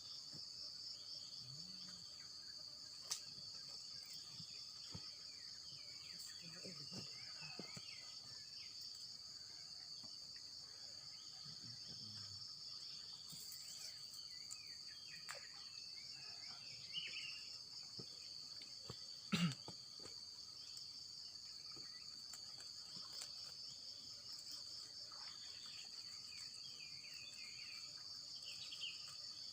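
Steady, high-pitched trilling chorus of insects, with faint scattered chirps and a couple of brief knocks, the louder one about two-thirds of the way through.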